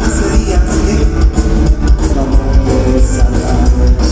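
Loud live band music in an instrumental stretch between sung lines of a romantic song.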